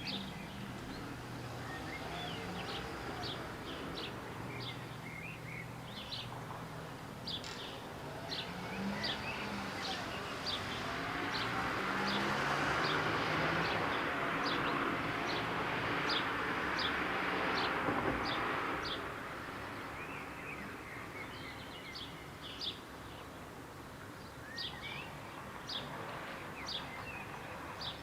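Small birds chirping in quick, short, high notes, over a steady low background hum. About a third of the way in, a broad rushing noise swells up, holds for several seconds and fades away; the chirping carries on after it.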